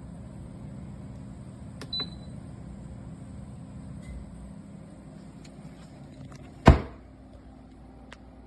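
Steady low mechanical hum, with a click about two seconds in and a single sharp knock near the end.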